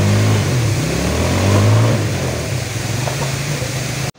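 Motorcycle engine revving unevenly, its pitch rising and falling as the bike labours up a steep, rocky slope while being pushed; the sound cuts off suddenly near the end.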